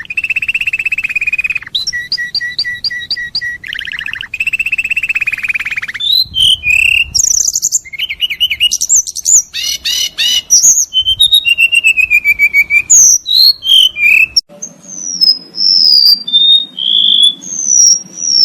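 Recorded songbird song spliced from several clips: buzzy trills and a short series of repeated notes, then rapid varied whistles and trills, and from near the end clear whistled notes over a low steady hum, changing abruptly where one recording gives way to another.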